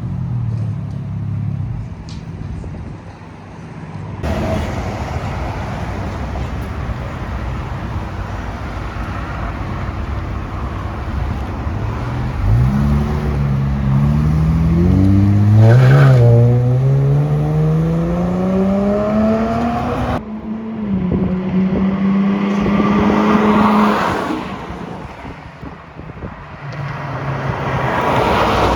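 Muffler-deleted vehicle exhaust under acceleration: the engine note climbs steadily in pitch for several seconds from about halfway in, then changes abruptly to a steady drone, followed by a rushing swell near the end.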